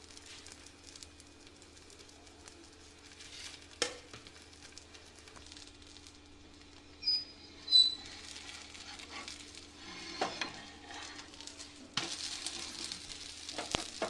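Semolina chilla frying in oil on a tawa, with a soft sizzle. About seven to eight seconds in, a metal spatula scrapes under it with two short high squeaks. The sizzle grows louder near the end once the chilla is turned.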